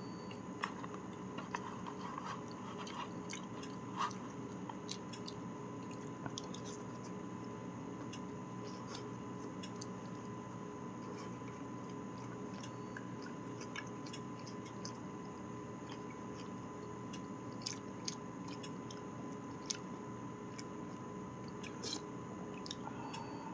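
A person chewing and eating pork-bone potato stew (gamjatang), with scattered light clicks throughout.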